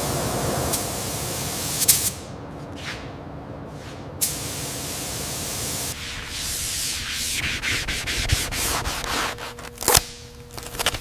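Sanding or rubbing on bare metal skin: a steady scrubbing noise for about two seconds, then quieter, then choppier strokes with several sharp clicks and a loud knock near the end.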